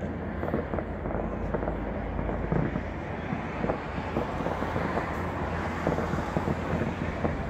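Wind buffeting the microphone, with a steady run of faint pops and crackles from fireworks going off in the distance.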